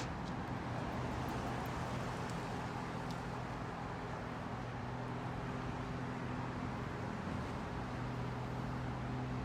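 A vehicle engine running steadily: a low, even hum under a constant hiss of road or wind noise.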